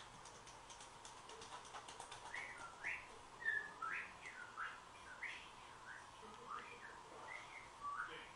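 A bird chirping: short, separate rising and falling chirps, about two a second, starting a couple of seconds in. Faint fine ticking comes before them, and a faint steady hum runs underneath.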